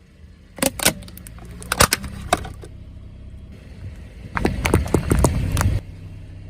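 A car tyre rolling over and crushing crunchy objects: a few sharp cracks, then a dense run of crackling and crunching about four and a half seconds in, over the low steady hum of the car's engine.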